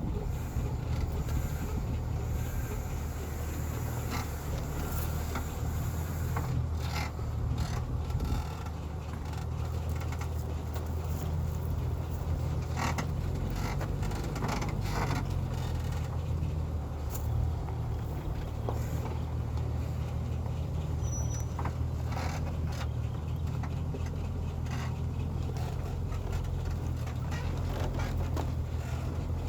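Heavy timber truck's diesel engine running with a steady low drone, with scattered knocks and rattles.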